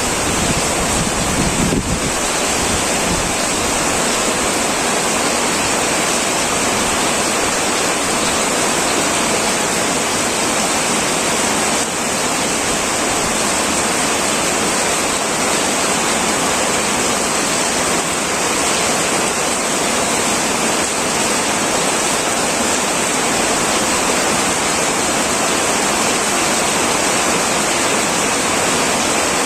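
Heavy rain pouring steadily onto an old tin metal roof, a dense, even hiss of drops. A low rumble underneath drops away about two seconds in.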